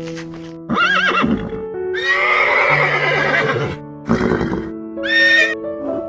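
Horse whinnying and neighing, four calls with the longest and loudest about two seconds in, over soft piano music.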